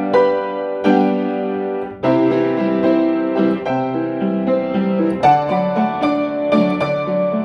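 Instrumental music: a piano or electric piano playing chords over a bass line, with a brief break about two seconds in before a new phrase begins.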